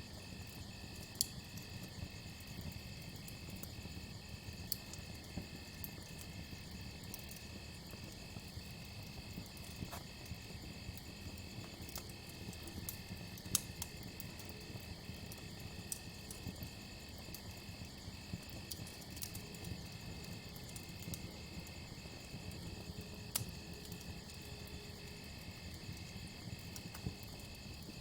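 Campfire crackling, with irregular sharp pops over a low rumble, while crickets chirp in an even, steady rhythm.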